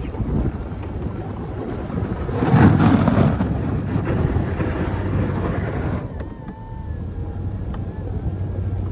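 Chevy plow truck's engine running with a steady low hum under a rushing noise. The rush swells about three seconds in and drops away at about six seconds, leaving faint thin high tones over the engine.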